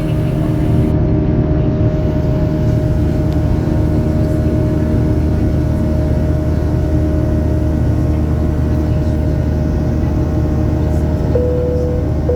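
Boeing 737-800's CFM56 jet engines heard inside the cabin during the climb after takeoff: a steady drone with a steady hum. A second steady tone comes in abruptly near the end.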